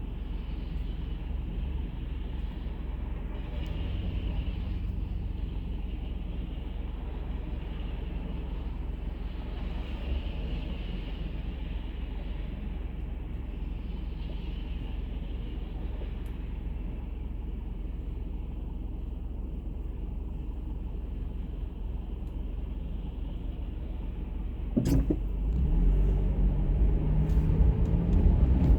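Steady low rumble of a car running. Near the end a sharp click, after which the sound grows louder.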